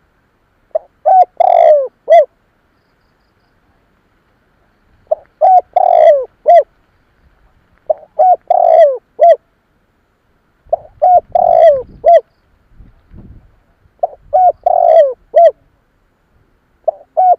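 Spotted dove cooing: the same phrase of four or five low notes, two short notes, a long sliding note, then a short last note, repeated about every three seconds, five times.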